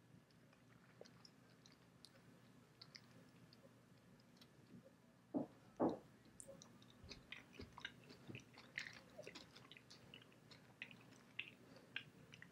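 Faint chewing of a milk chocolate bar with caramelized popcorn pieces in it: soft crunching and small mouth clicks, with two louder crunches about five and a half seconds in.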